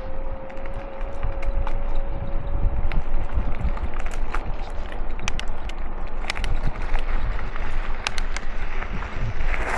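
Wind buffeting the camera microphone over the rumble of a bicycle in motion, with scattered sharp ticks throughout. A thin steady whine sounds for the first three or four seconds and then fades; near the end the rushing noise grows brighter and louder.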